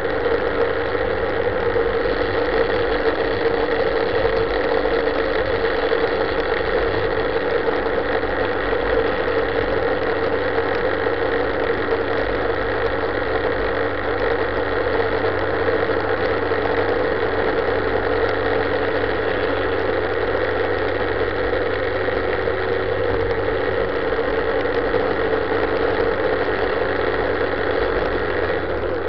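Sport-touring motorcycle engine running steadily under way at about 5,000 rpm, a constant drone that holds even throughout.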